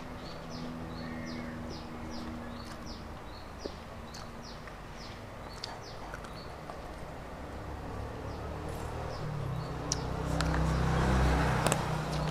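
A bird chirping over and over, short high falling chirps about three a second, thinning out after about six seconds. A few faint clicks are heard, and a low hum swells toward the end, loudest about a second before it finishes.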